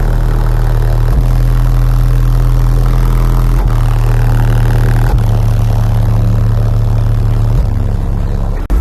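Car audio subwoofers playing loud, deep bass notes, each held for one to two and a half seconds before stepping to a new pitch, with a sudden brief cut near the end.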